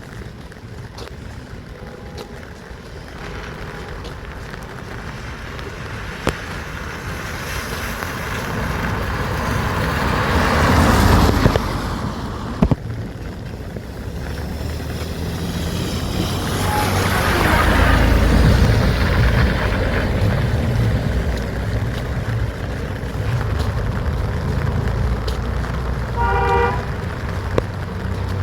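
Road traffic: two vehicles pass one after another, each swelling and fading, the first about ten seconds in and the second about eighteen. A short horn toot sounds near the end.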